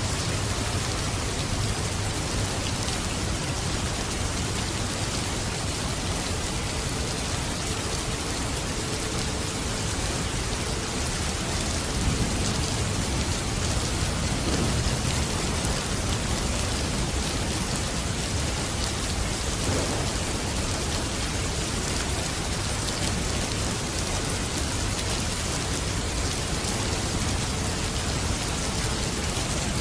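Steady, dense rainfall pattering on surfaces, with a low rumble swelling briefly in the middle.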